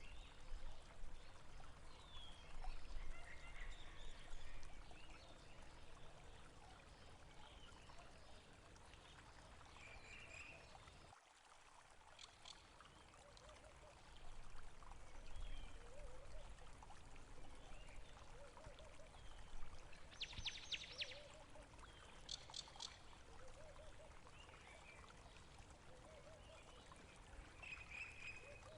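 Water flowing and trickling, with small birds chirping now and then. The low rumble drops out suddenly about eleven seconds in, and the water sound carries on more softly.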